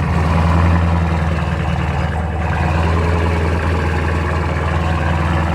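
Straight-piped Dodge Challenger Scat Pack's 6.4-litre HEMI V8 idling steadily and loudly just after a cold start, a deep, even exhaust drone.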